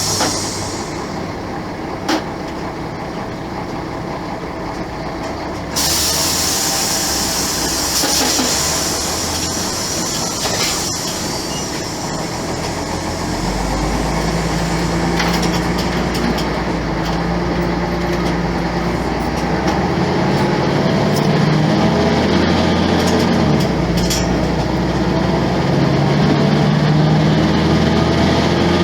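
Volvo B10M bus's mid-mounted six-cylinder diesel engine running, its note shifting in steps and climbing over the second half as the engine works up through its revs. A hiss sounds near the start and again from about six seconds in, with a sharp click at about two seconds.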